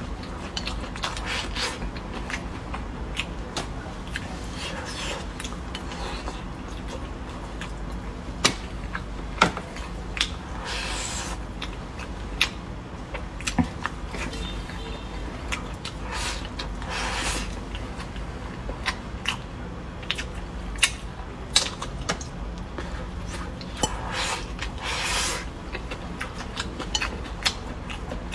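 Close-miked chewing and mouth sounds of someone eating boneless chicken feet and rice: wet smacking and chewing with many sharp clicks scattered through, and a few longer breathy slurps or inhales.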